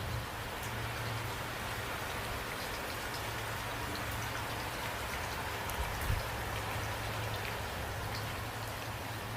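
Steady rain falling, with scattered individual drops ticking over the even hiss and a low steady rumble underneath; a brief low thump about six seconds in.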